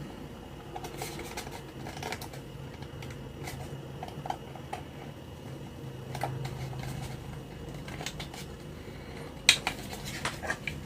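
Small clicks and taps of a component tester and parts being handled on a workbench, over the steady hum of a running fan. A sharper click comes about nine and a half seconds in, with a few more just after.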